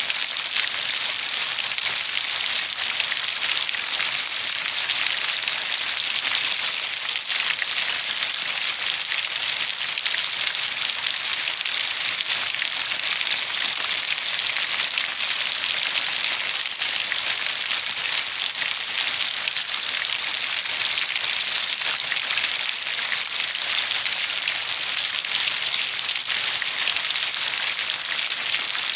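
Steady heavy rain falling on a surface: a dense, even hiss of many fine drops, without a break.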